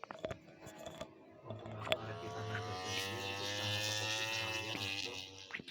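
A MotoGP racing motorcycle's engine at high revs, a buzzing whine that rises slowly in pitch for about three seconds from around two seconds in, then fades away. A few sharp clicks come before it.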